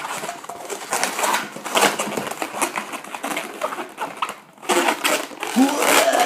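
Latex modelling balloons rubbing and squeaking against each other and the hands while being twisted into bubbles, a dense run of scratchy squeaks with a few higher squeals near the end.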